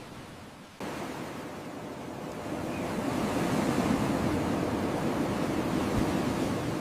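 Ocean surf: a rush of wave noise that cuts in suddenly about a second in, swells to its loudest around the middle, then eases a little.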